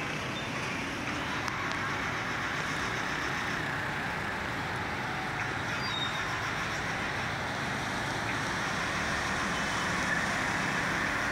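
Road traffic on a rain-soaked, waterlogged street: a steady hiss of vehicles and wet road noise.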